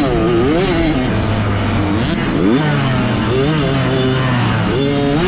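Small 65cc two-stroke motocross bike engine under race riding, revving up and dropping back repeatedly through gear changes and throttle work. Its pitch holds steady for a couple of seconds in the middle, then climbs again near the end.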